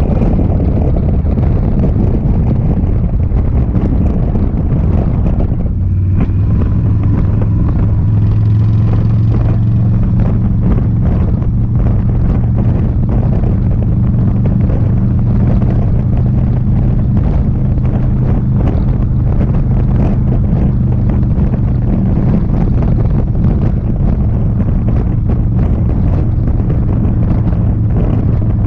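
Indian Sport Chief's V-twin engine running at a steady cruise under heavy wind rush on the microphone; the engine note settles to a steady pitch about six seconds in.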